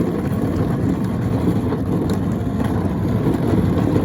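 Wind buffeting the phone's microphone: a steady, loud low rumble with no break.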